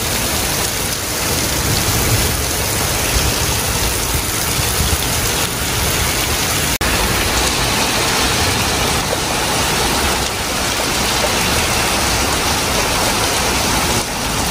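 Torrential rain pouring down onto a street and pavement: a loud, steady rushing hiss.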